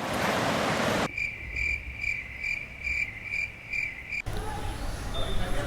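Cricket chirping in a steady pulse of about two chirps a second. It switches on and off abruptly, like an added sound effect. It is preceded by about a second of loud hiss-like noise, and a low rumble like traffic takes over near the end.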